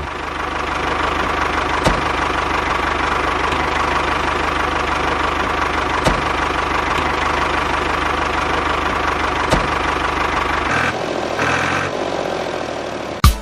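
A small motor running steadily with an even low buzz and a few faint clicks. About eleven seconds in, the lowest part of the sound drops away and the running note changes.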